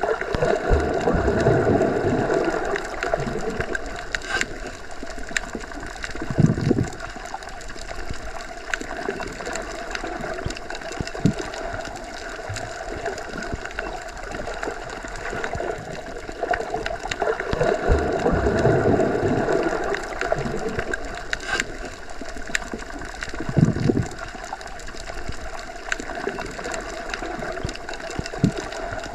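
Underwater ambience as heard when submerged: a continuous muffled rumble and hiss. It swells twice, near the start and again about halfway through, with a low thud a few seconds after each swell and faint scattered clicks.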